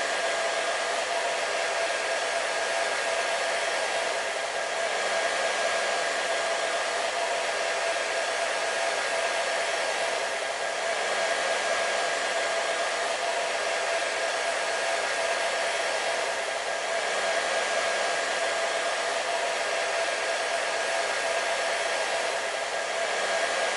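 Hair dryer running steadily: a constant rush of air with a steady motor hum, swelling very slightly every few seconds.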